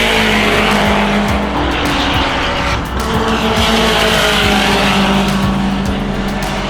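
Car engine running on a racetrack, with tyre noise, over background music.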